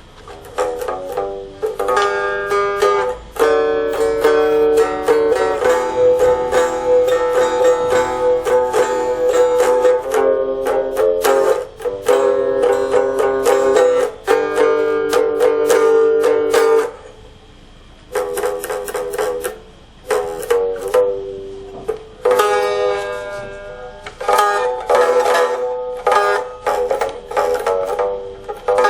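Homemade three-string box guitar tuned E-B-E, picked in a run of bright, twangy notes, with a brief pause about two-thirds of the way through.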